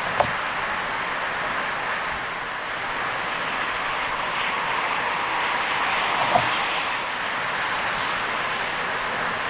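Heavy rain and wet-road tyre noise from a car driving through a downpour, a steady hiss, with two sharp knocks, one just after the start and one about six seconds later, and a brief high squeak near the end.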